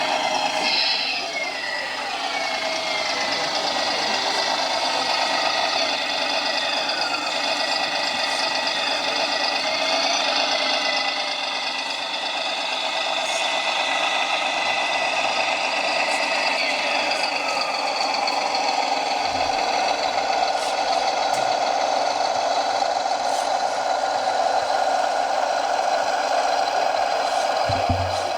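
A radio-controlled scale model truck running, with a steady engine-like drone and a whine that glides up and down in pitch a few times.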